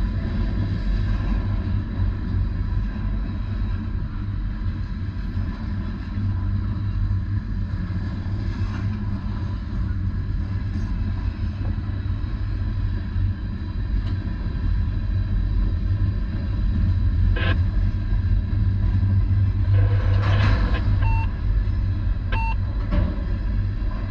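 Steady low vehicle rumble, with two short beeps near the end.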